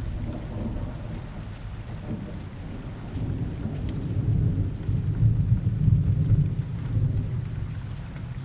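Steady rain with a low rumble of thunder that swells and peaks about halfway through.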